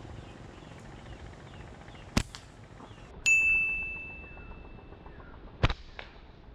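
Two slingshot shots, each a sharp snap, about three and a half seconds apart. Between them comes a single metallic ding that rings on for about two seconds as it fades. Faint bird chirps run underneath.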